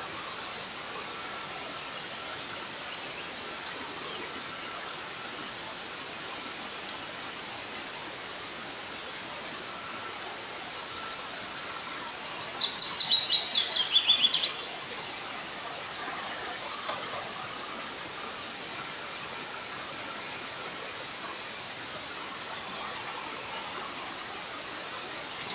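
A bird gives one rapid series of about ten high, piercing calls that fall in pitch, about halfway through, over a steady hiss of wind.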